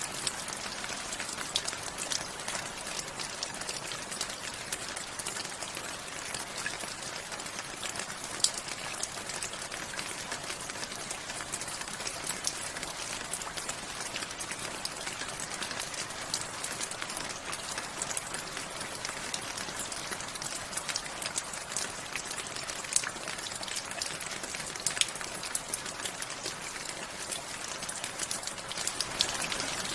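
Steady rain falling, an even hiss with many individual drops ticking and pattering on surfaces, a few drops landing louder and sharper.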